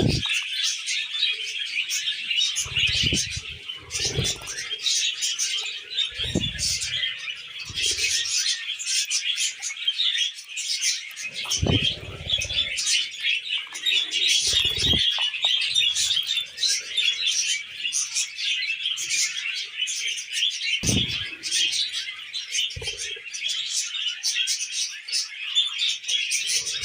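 Several budgerigars chattering and warbling without a break in a dense stream of high chirps. A few short low-pitched rustles break in now and then.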